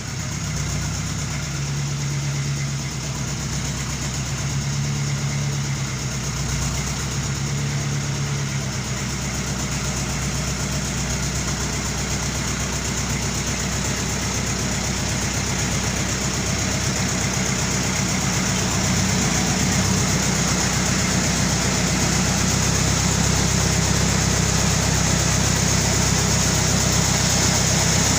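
Sawmill running steadily: a motor's low hum with a high hiss from the saw that grows louder in the second half.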